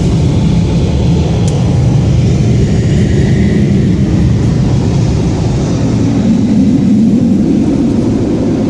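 Car wash machinery running with a steady, loud low rumble.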